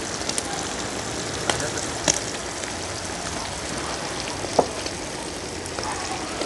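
Chicken gizzards and whole garlic cloves frying in a wide pan: a steady sizzling hiss with a few sharp pops of spitting fat.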